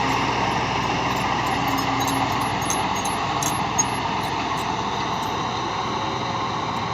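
Bulldozer engine running steadily, with one short sharp knock about four seconds in.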